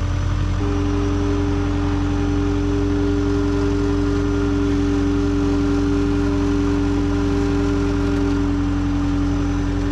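An engine running steadily at idle. A steady higher whine joins it about half a second in.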